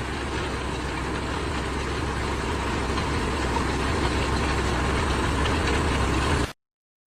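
An engine running steadily with a low hum, slowly growing a little louder, then cut off suddenly near the end.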